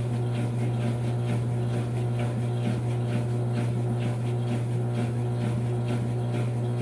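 Brastemp 5 kg top-loading washing machine in its spin cycle: a steady motor hum with a faint, regular beat from the spinning drum, about three times a second.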